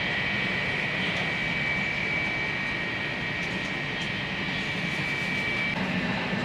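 Steady noise inside an airliner cabin: a constant rush of engines and airflow, with a faint high steady tone that stops near the end.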